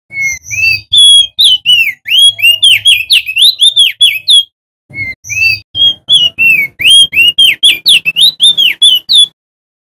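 Male opior jambul (crested darkeye) singing loudly: two quick runs of whistled notes that slide up and down, with a short break between them about four and a half seconds in.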